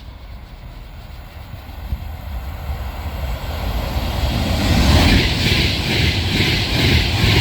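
A train approaching and passing close by, its rumble growing louder over the first few seconds, then a loud rush with a regular rhythmic clatter about twice a second.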